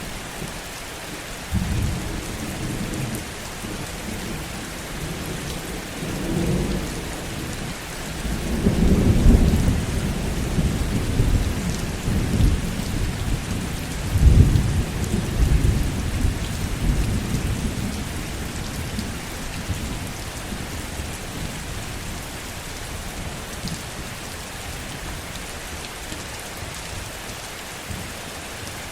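Heavy, steady rain with rolling thunder. The thunder rumbles low from a couple of seconds in, swells loudest about nine and fourteen seconds in, and dies away by about twenty seconds, leaving only the hiss of the rain.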